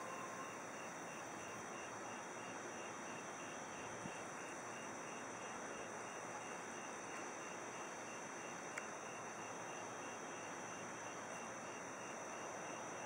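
Crickets and other insects chirping, a steady high trill with a regular pulsing chirp over a steady hiss; a faint click about four seconds in and a sharper one near nine seconds.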